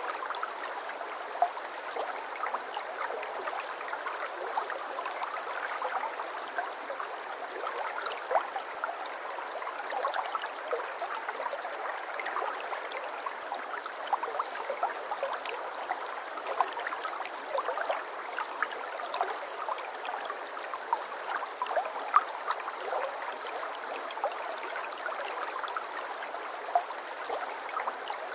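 Babbling brook: water flowing steadily over stones, with many small splashes and gurgles.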